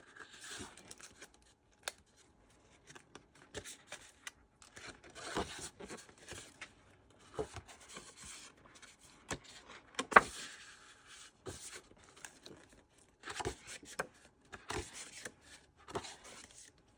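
Sheets of thick 6x6 cardstock paper being handled and flipped through: intermittent rustling and sliding of paper with scattered light taps, the sharpest tap about ten seconds in.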